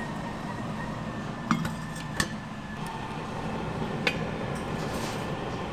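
Three sharp clinks over a steady background noise, one about a second and a half in, one just after two seconds, and one about four seconds in.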